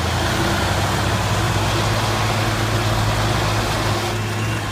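Big diesel tractor engines, a Fiat 160-90 among them, running hard under load as the two tractors pull against each other. It is a steady, low engine drone.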